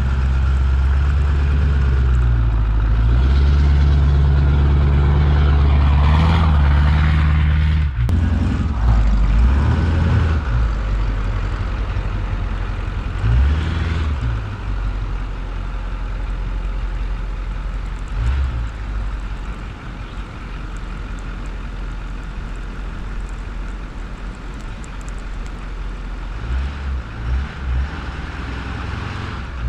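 Emissions-deleted, single-turbo 6.4-litre Powerstroke V8 diesel of a 2008 Ford pickup running hard under load, climbing a snowy hill. It is loudest for the first several seconds, with the revs rising and falling, then settles to a lower drone, with a few short revs near the end.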